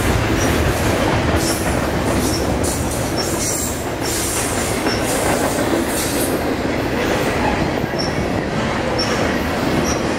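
Double-stack intermodal freight cars rolling past at speed: a steady rumble of steel wheels on rail, with repeated clicks as the wheels cross the rails and brief high wheel squeaks.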